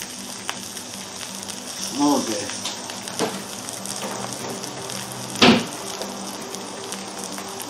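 Smashed potatoes topped with grated cheese sizzling in a frying pan, a steady fizzing hiss. A sharp knock about five and a half seconds in stands out, with a smaller one about three seconds in.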